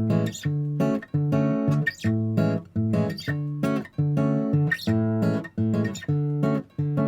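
Background music: acoustic guitar strummed in a steady, repeating rhythm.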